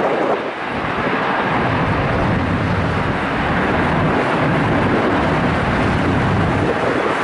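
Boeing 777 twin jet engines at takeoff power, a loud steady roar that dips briefly about half a second in.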